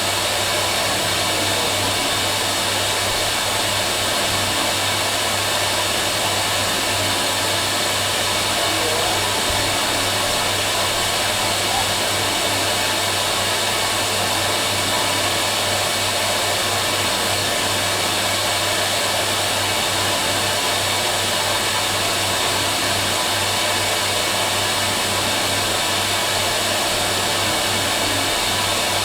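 Fisher & Paykel MW512 washing machine running: a steady whirring rush with a low hum underneath, unchanging throughout.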